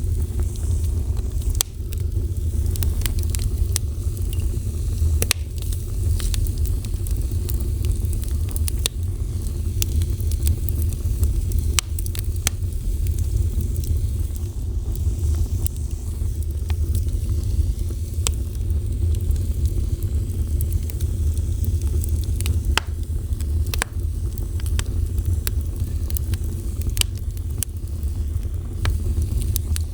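A fire burning, with frequent sharp crackles and pops scattered irregularly over a steady low rumble.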